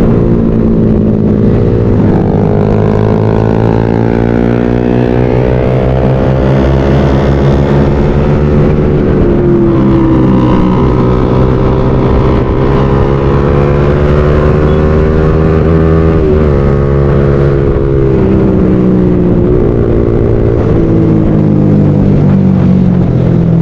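Motorcycle engines running under way on a group ride, their pitch rising and falling with the throttle, with more than one engine note heard at once and the rumble of wind and road underneath.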